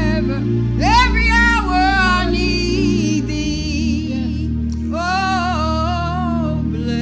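Gospel singing: a solo voice holding long notes with vibrato, scooping up into a phrase about a second in and again about five seconds in, over sustained accompanying chords.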